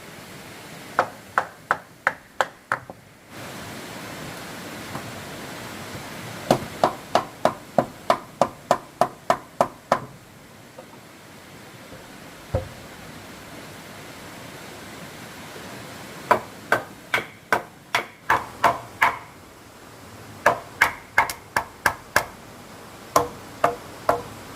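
Hammer blows on wood, in runs of several quick strikes about three a second, each with a short ringing note, separated by pauses of a few seconds.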